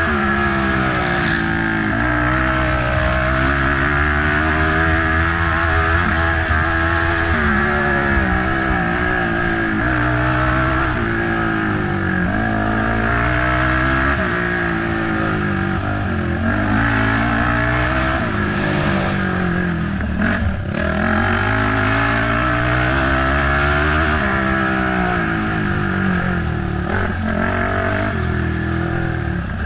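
Race ATV engine revving hard and dropping back again and again as the rider works the throttle and shifts through the course, with a brief drop in revs about two-thirds of the way through.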